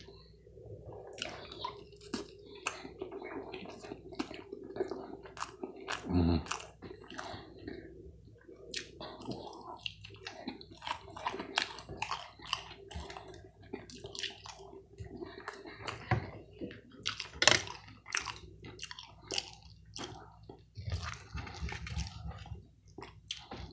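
Close-miked chewing of pancakes: irregular wet mouth clicks and smacks, with a louder low gulp or hum about six seconds in. A faint steady hum runs underneath.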